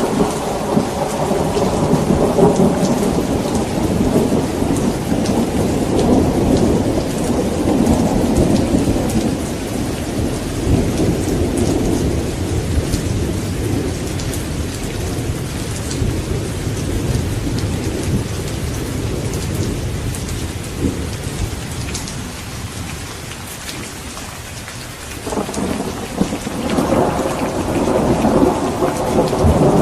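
Steady heavy rain hissing and pattering on surfaces through a thunderstorm. A long roll of thunder rumbles and slowly dies away over the first half, and a new rumble of thunder rises sharply about 25 seconds in.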